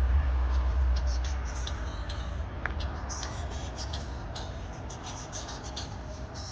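A low rumble, like a passing vehicle, fading away over the first few seconds. Light, irregular scratching and ticking runs on through it.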